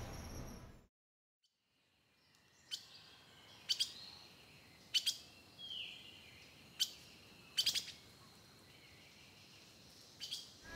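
Small birds chirping: about eight short, sharp chirps scattered a second or so apart over a faint quiet background, one a brief falling note. Near the start the sound drops out for about a second.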